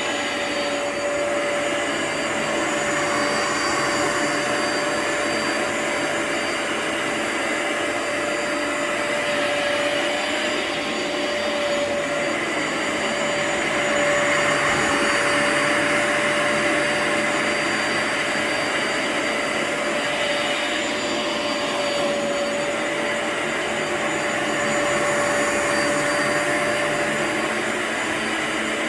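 Upright carpet cleaner's suction motor running steadily with a high whine over rushing air. Its loudness swells and eases a little as it works over the rug.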